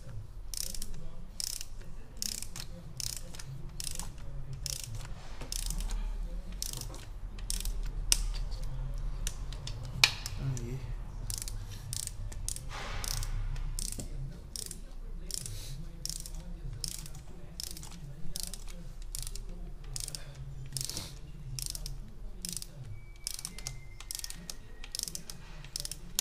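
Ratchet of a torque wrench clicking in steady runs, about two clicks a second, as the valve cover bolts on a Honda Civic Si 2.0 engine are tightened down over a new gasket.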